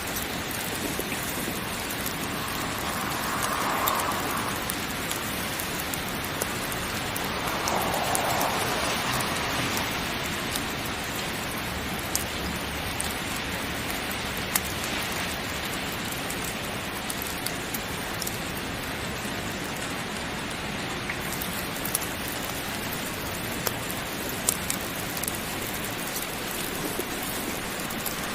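Heavy rain falling steadily, with scattered sharp ticks through it and two brief swells in the sound a few seconds in.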